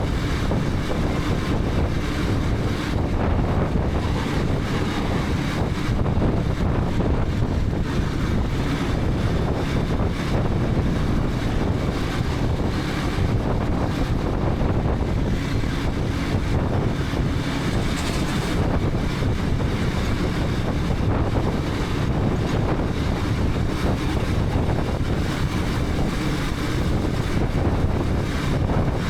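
KTM 250 Adventure's single-cylinder engine running steadily on the move, mixed with heavy wind rush over a helmet-mounted camera microphone.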